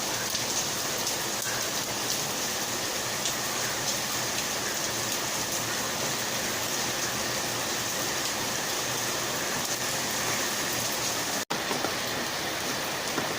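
Steady rain falling and spattering on surfaces. The sound cuts out for an instant about eleven and a half seconds in.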